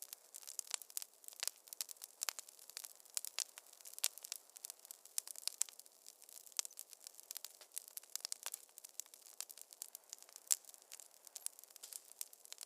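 Wood fire crackling in a fireplace: dense, irregular pops and snaps, several a second, with one sharper pop about ten seconds in.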